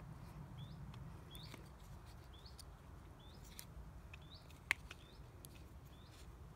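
A small bird repeating one short chirp about once a second. Near the middle comes a single sharp click from the wind generator's plastic blade and hub being pressed together by hand.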